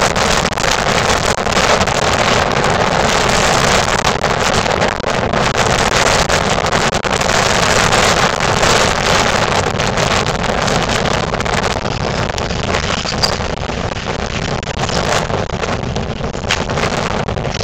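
Strong wind blowing and buffeting the microphone in gusts, a continuous loud rush that eases slightly in the second half.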